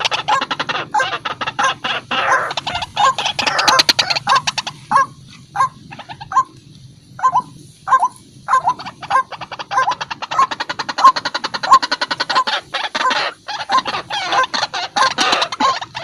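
White-breasted waterhen (ruak-ruak) calling: a fast run of harsh repeated notes that thins to separate notes about two a second in the middle, then speeds up into a dense run again.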